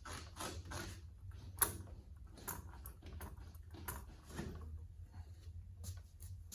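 Irregular clicks, light knocks and scrapes of hand tools and metal parts being handled during tractor disassembly, with one sharp click about a second and a half in, over a steady low hum.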